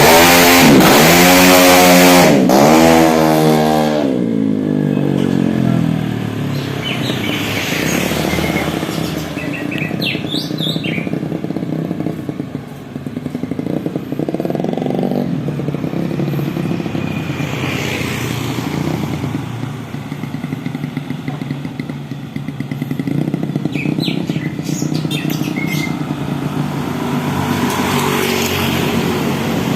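Tuned-up 150 cc automatic scooter engine revved in a few quick blips, then settling into a steady idle.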